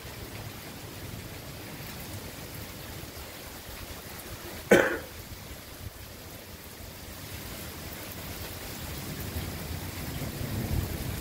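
Heavy rain pouring down as a steady hiss. There is a single short cough about five seconds in, and a low rumble of thunder builds near the end.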